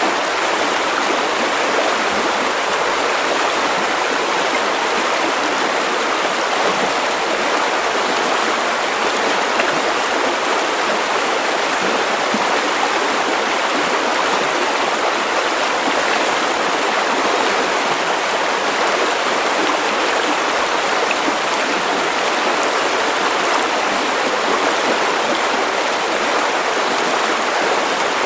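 River water running steadily over stones, a continuous even rushing and burbling.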